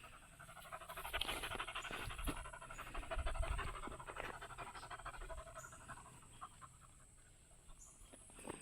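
A dog panting rapidly, the quick breaths fading away after about six seconds.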